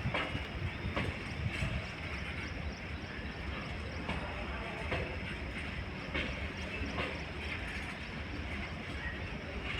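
Loaded BCNA covered freight wagons rolling past at moderate speed: a steady low rumble of wheels on rail, with sharp wheel clicks over rail joints about once a second.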